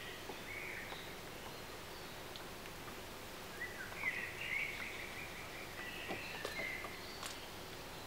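Songbird singing in short chirping phrases, with a longer run of song from about halfway through, over a steady faint outdoor background hiss.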